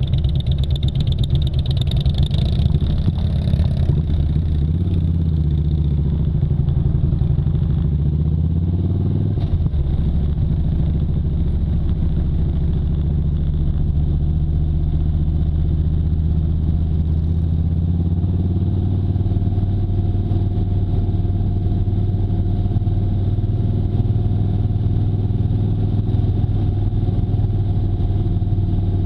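Motorcycle engine running under way, its pitch rising and falling a few times in the first ten seconds, then holding steady at a constant speed.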